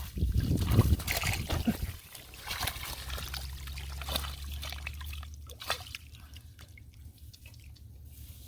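Shallow water sloshing and trickling. The first two seconds are louder and splashier, then it settles into quieter scattered splashes and drips.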